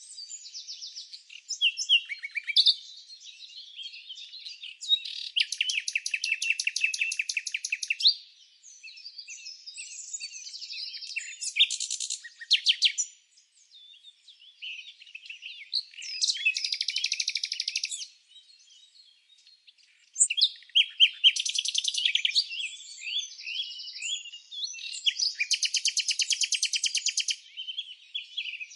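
Wild birds chirping, with several fast trilled phrases of a second or two each and scattered single chirps. There are short pauses about halfway through and again about two-thirds of the way in.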